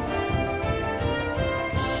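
Brass band music: trumpets and trombones playing a tune over a regular drum beat.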